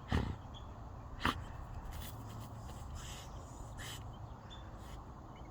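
Dog at a ground squirrel hole: two loud, sharp sounds about a second apart, then four fainter short sounds.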